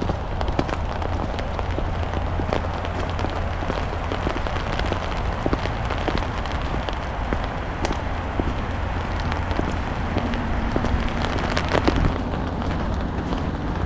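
Rain mixed with wet snow pattering down, dense small drop ticks over a steady low rumble.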